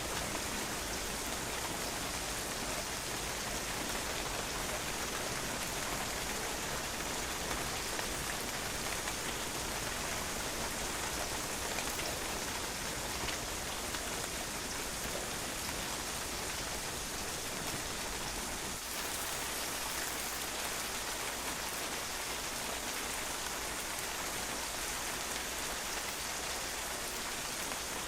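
Steady rain falling and splashing on a patio, a dense even patter of drops without let-up.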